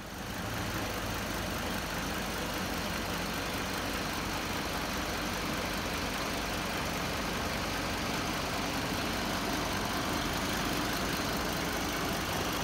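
2006 Hummer H3's inline-five engine idling steadily.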